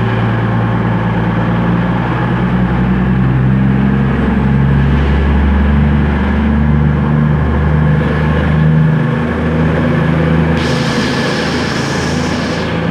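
Class 220 Voyager diesel multiple unit pulling away under power, its underfloor diesel engines running with a loud low drone and tones that step up and down in pitch. A hiss joins in near the end.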